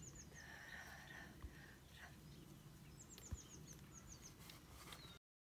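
Faint outdoor ambience with small birds singing: quick runs of high, descending chirps near the start and again about three seconds in, with two soft low thumps. The sound cuts off abruptly near the end.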